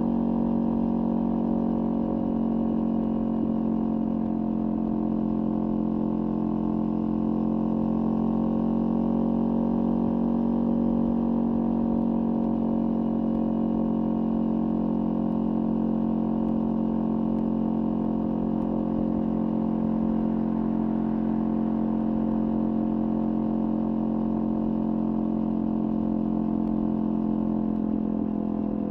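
Kawasaki Ninja 400 parallel-twin engine with a LeoVince aftermarket exhaust, running at a steady, nearly unchanging pitch.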